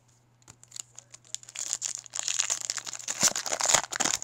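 Foil wrapper of a Topps Chrome baseball card pack crinkling and tearing as it is opened. A few light clicks come first, then a dense crackling begins about a second and a half in and is loudest near the end.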